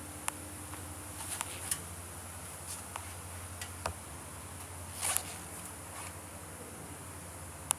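Kawasaki Z440LTD's parallel-twin engine idling steadily as a low hum, with scattered light clicks and a brief rustle about five seconds in.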